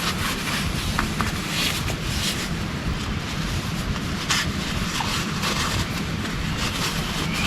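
Heavy rain falling steadily, with a few sharper individual drops or drips ticking now and then.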